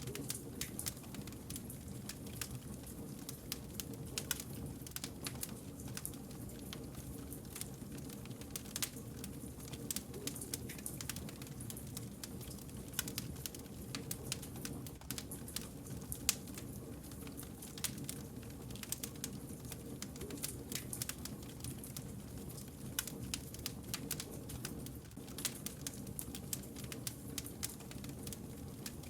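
Wood campfire crackling, with frequent irregular sharp pops and snaps over a steady low rumble of the burning logs.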